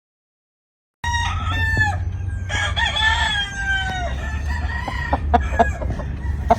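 Gamefowl roosters crowing. The sound starts suddenly about a second in with a short crow, followed by a longer drawn-out crow, over a steady low rumble. Several short, sharp clucks or clicks come near the end.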